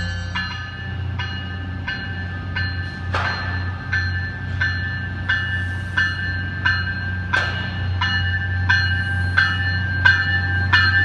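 A bell rings steadily, about one and a half strokes a second, as an MBTA commuter train pulls into the station. Under it runs the train's low steady rumble, with two brief hisses about three and seven seconds in.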